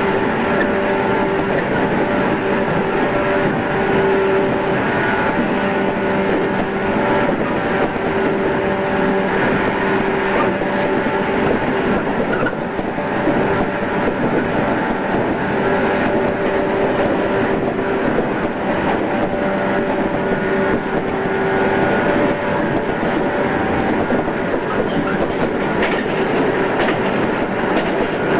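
A JR East 113 series electric train running at a steady speed, with a steady hum of several tones over the rumble of wheels on track.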